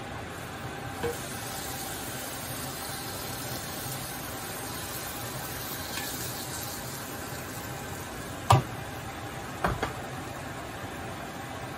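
Tortilla de patatas sizzling steadily in oil in a frying pan as it is slid back in from a plate. Two sharp knocks near the end, from the plate striking the pan.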